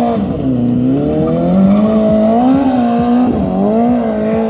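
BMW S1000RR's inline-four engine held at high revs during stunt riding, dipping about half a second in and climbing back, then wavering as the throttle and clutch are worked.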